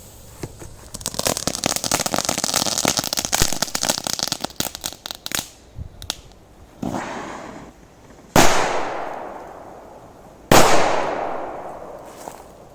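Korsar 4 firecrackers going off. About four seconds of rapid crackling come first, then a smaller pop, then two loud bangs about two seconds apart, each trailing off in a long echo.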